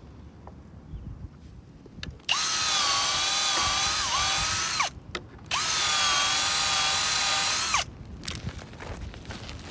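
Electric drill boring a hole through a wooden timber, run in two bursts of about two and a half seconds each. The motor whine holds steady, dips briefly under load in the first burst, and falls away each time the trigger is released. Light knocks and handling noise follow.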